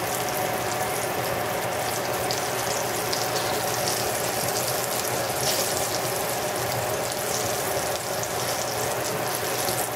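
Breaded zucchini slices frying in a skillet of mixed oils over medium-high heat: a steady sizzle with fine crackling.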